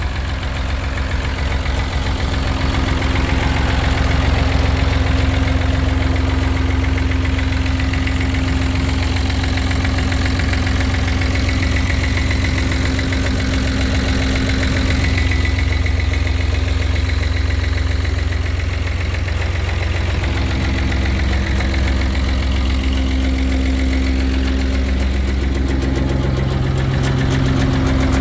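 David Brown 885 tractor's three-cylinder diesel engine running steadily at idle, with a slight change in its tone near the end.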